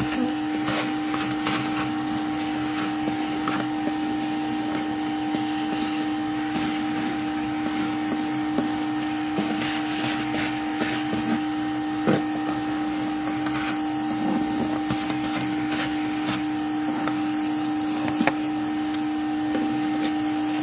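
Vacuum motor running steadily with a constant hum, used to suck up the remaining bees, with a few short clicks along the way.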